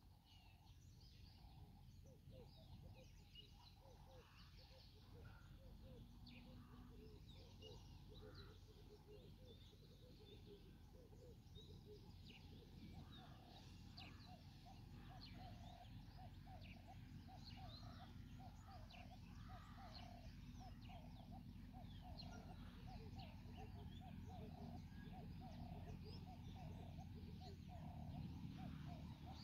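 Faint outdoor ambience: scattered small birds chirping over a low steady rumble, with a faster run of calls joining about halfway.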